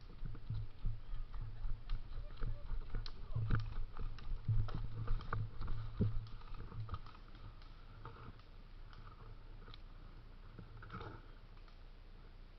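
Irregular thuds and clicks from footsteps and rattling gear as an airsoft player moves position with the camera on him, heavy for several seconds and then dying down to a few faint clicks.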